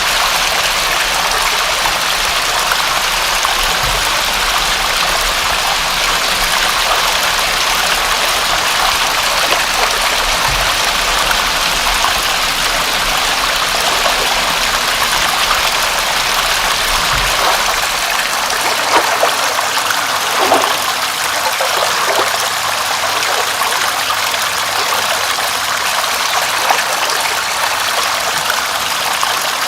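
Continuous rushing water, a steady even hiss with a few splashes and drips standing out now and then.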